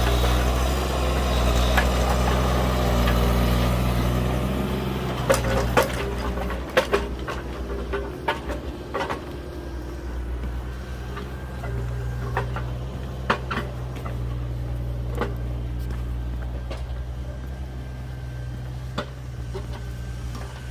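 Excavator's diesel engine running steadily, louder for the first few seconds, with a series of sharp knocks from about five seconds in.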